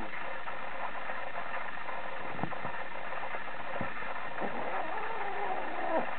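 Somali kitten mewing several short times in the last couple of seconds, over a steady background hum, with a couple of soft knocks earlier.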